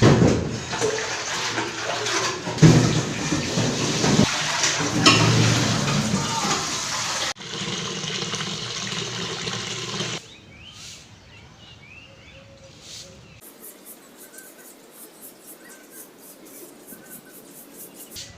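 Water running and splashing for about ten seconds, with an abrupt change partway through. Then it drops to a much quieter background with faint short chirps.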